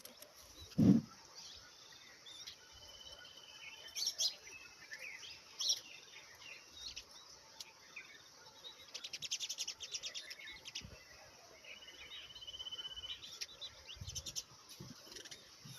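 Small birds chirping and trilling: scattered sharp chirps, two short buzzy trills, and a fast run of rapid chirps a little past the middle. A brief low thump about a second in is the loudest sound.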